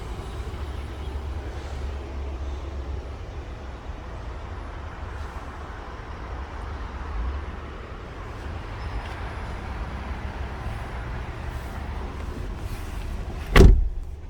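A car door shuts with one sharp thud near the end, over a steady low rumble.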